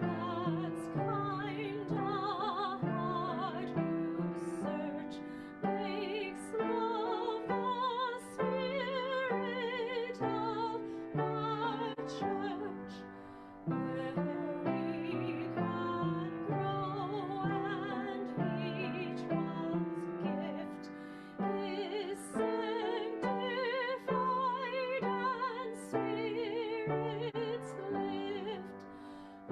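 A recorded hymn: singing with wide vibrato over instrumental accompaniment, in phrases of about eight seconds with a short breath between them.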